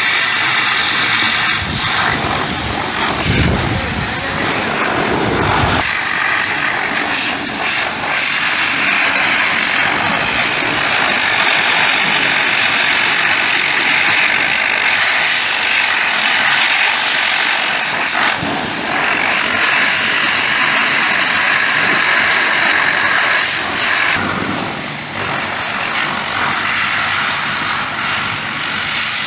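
A machine running steadily and loudly, with a hissing layer that drops out briefly twice.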